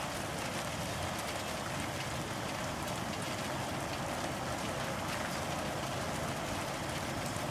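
Steady, even rushing noise of an EF3 tornado at a distance, the sound likened to a freight train.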